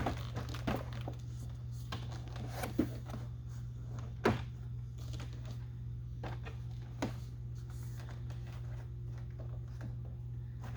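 A few scattered light clicks and knocks of a truck's interior door panel being handled and worked into place, the sharpest about four seconds in, over a steady low hum.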